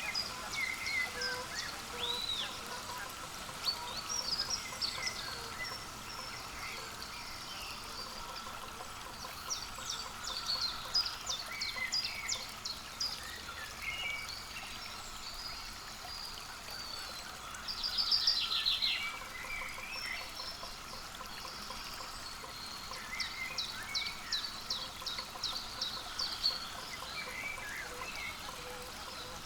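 Small birds calling: many short, high chirps and quick runs of repeated notes, scattered throughout, with a busy burst a little past halfway, over a faint steady hum.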